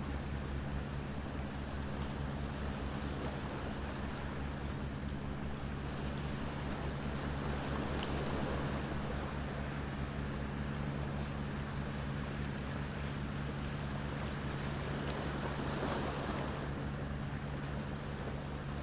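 Ocean surf washing steadily with a low rumble, under a bonfire that gives an occasional faint crackling pop.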